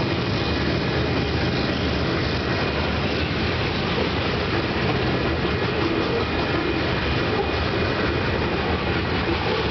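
Freight cars rolling past on the rails: a steady rumble and clatter of steel wheels on track from a passing mixed freight train's covered hoppers.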